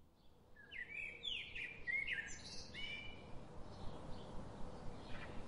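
Birds chirping: a quick run of short, curving chirps starting about a second in and thinning out after the middle, over a faint steady background hiss.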